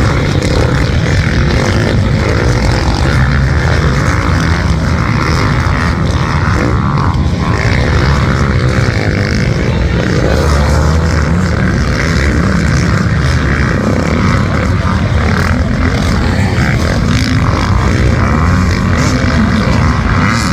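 Motocross motorcycle engines running hard in a race, a continuous loud roar with the pitch rising and falling as riders work the throttle and shift.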